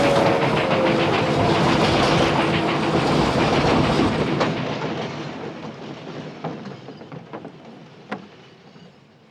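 Train passing close by with wheels clattering on the rails, loud at first, then dying away over the last five seconds or so with a few scattered clicks.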